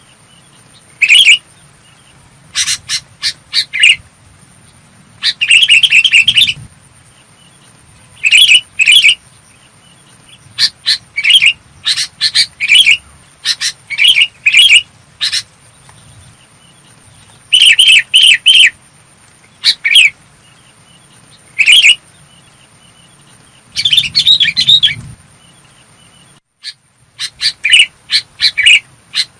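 Sooty-headed bulbul calling: short bursts of clear, quick chirping notes, coming in groups every second or two with brief pauses between.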